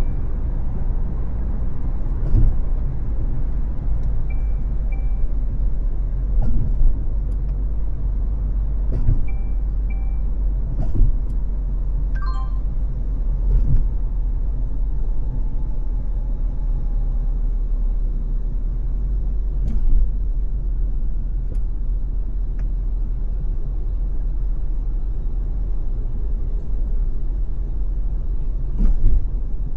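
A car driving on a freeway: steady low road and engine rumble, with a dull thump every few seconds. A few faint short high beeps come in pairs in the first ten seconds.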